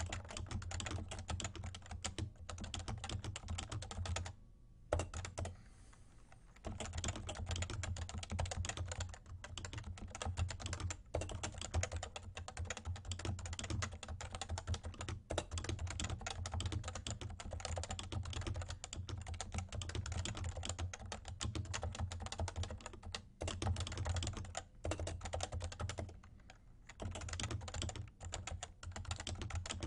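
Continuous fast typing on a Realforce R2 TKL Topre keyboard with 30 g keys: a dense run of soft keystrokes. The typing pauses for about two seconds around five seconds in, and briefly again near the end.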